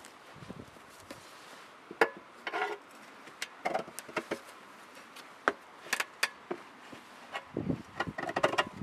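Irregular knocks, clicks and clatters of tools and parts being handled during tractor wheel work, with a sharp knock about two seconds in and a quick run of clatters near the end.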